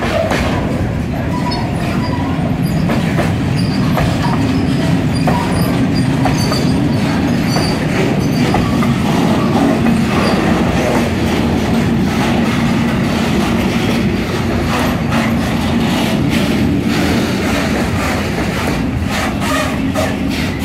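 Freight train of sliding-wall covered wagons (Habbillns type) rolling past: a loud, steady rumble of steel wheels on the rails, broken by repeated clicks and clacks as the wheels cross rail joints.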